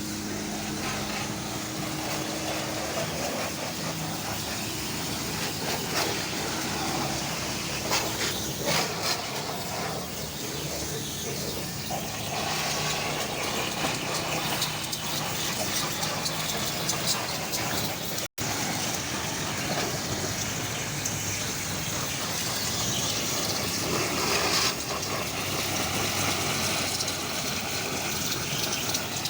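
A motor running steadily under a continuous hiss, with scattered short knocks.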